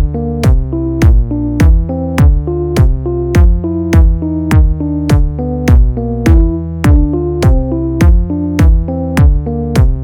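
Electronic beat music: a steady drum-machine pattern of deep booming kicks that drop in pitch, with sharp crisp hits over held synth chords.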